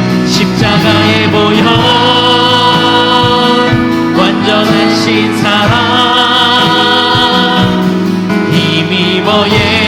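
Live contemporary worship music from a church praise team: held chords with singing voices, changing every couple of seconds.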